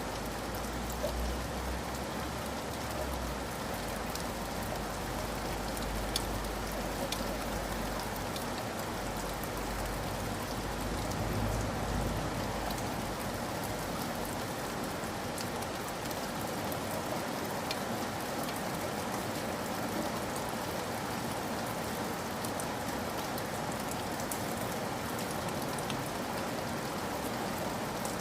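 Steady rain falling, an even hiss dotted with individual drops ticking. A deep low rumble runs under it for roughly the first dozen seconds, then fades away.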